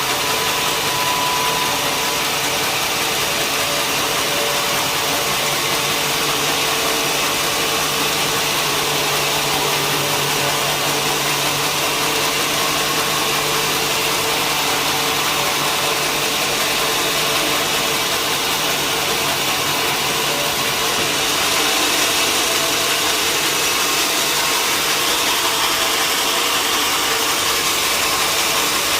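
Sawmill machinery running steadily with a constant, even noise. A low hum within it fades about two-thirds of the way through as the sound grows slightly louder.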